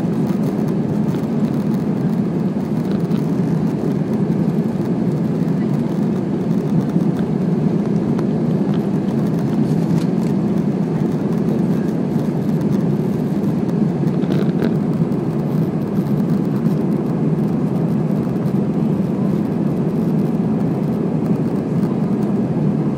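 Steady cabin noise of an Airbus A320 airliner climbing out after takeoff: a loud, even, low rumble of engines and airflow, heard from inside the passenger cabin.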